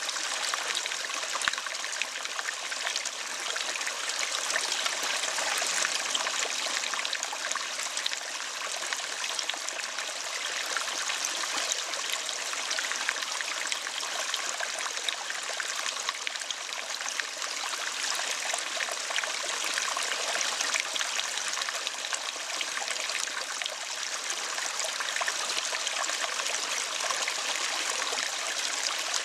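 Running water, a steady stream-like trickle with no pauses.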